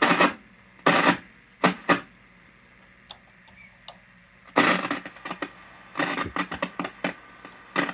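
Hallicrafters S-108 shortwave receiver hissing through its speaker, broken by loud irregular crackles of static: a few separate ones in the first two seconds, then rapid clusters after the midpoint.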